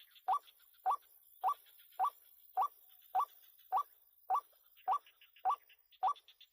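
White-breasted waterhen (ruak-ruak) call: a short rising note repeated at a steady pace, about eleven times, with no break, in the way used as a lure for trapping the bird.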